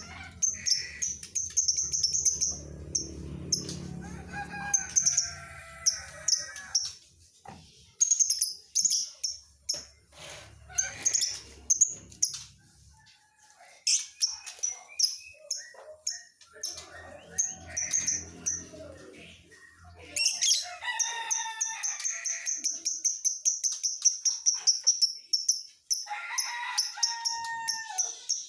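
Lovebird chirping in sharp, high calls, breaking into a fast run of rapidly repeated chirps about two-thirds of the way through.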